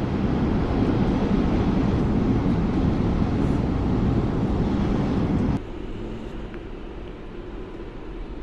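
Steady low rumble of a moving train heard from inside the car. About five and a half seconds in it cuts suddenly to a quieter, even running noise with a faint low hum.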